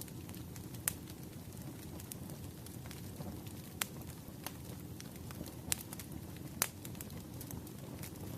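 Firewood burning in a fire, crackling with sharp, irregular pops over a low, steady rumble of the flames.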